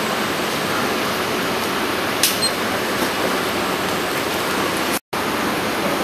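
Steady rushing noise with no speech, broken by one sharp click about two seconds in and a brief dropout to silence near the end.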